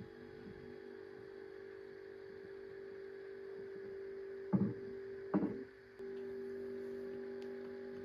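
A steady hum of a few held tones, with two short knocks about a second apart about halfway through. The hum cuts out for a moment just after the second knock, then resumes.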